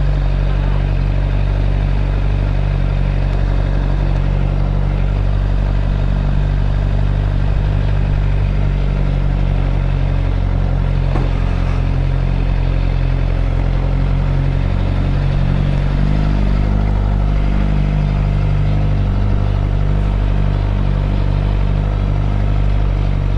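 2013 Suzuki GSX-R 600's inline-four engine running steadily at low speed, its pitch shifting slightly about two-thirds of the way through.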